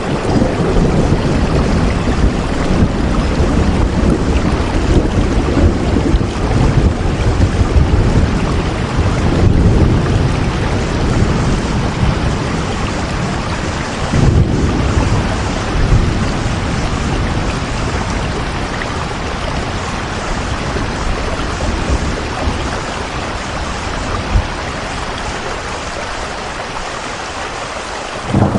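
Steady heavy rain with low rumbles of thunder, the rumbling strongest in the first half and the whole sound easing off gradually toward the end.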